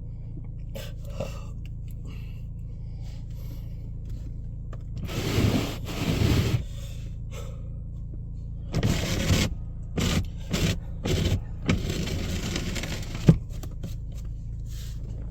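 A car engine idling while it warms up in the cold, a steady low hum. Over it come several bouts of scraping and rustling from about five seconds in, and a sharp click near the end.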